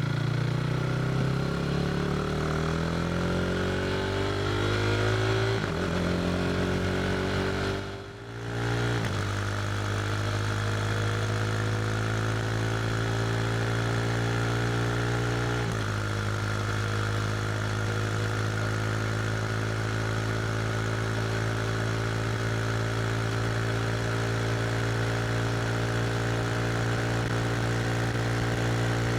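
KTM RC 390's single-cylinder engine through an SC Project slip-on exhaust, accelerating through the gears with the quickshifter on. The pitch rises, drops at upshifts about six and sixteen seconds in, and dips briefly in loudness around eight seconds, then holds a steady cruise.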